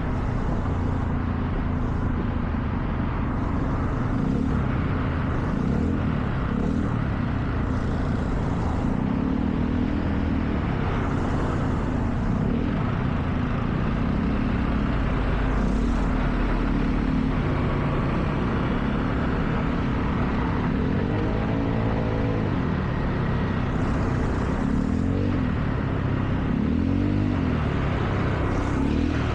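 Car driving on a wet road: steady engine running and tyre noise, the engine note rising and falling several times as the car speeds up and slows.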